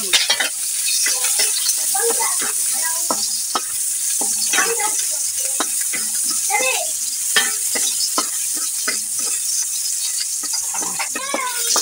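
Sliced garlic sizzling in hot oil in a metal wok, stirred with a wooden spatula that scrapes and knocks against the pan in frequent short strokes over a steady frying hiss.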